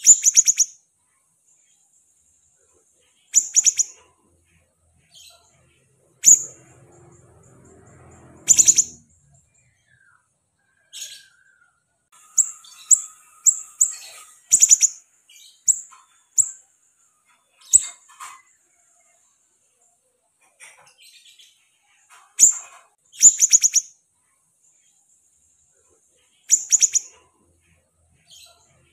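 A caged siri-siri songbird singing actively: short, very high trilled calls, each a fast run of clicky pulses, repeated every second or few, with a quick series of chirps about halfway through.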